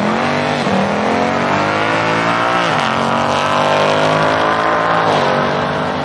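Stock 5.0 V8 Ford Mustang and a Golf R launching in a dig race, engines revving hard under full acceleration. The pitch climbs and drops back about three times at the upshifts.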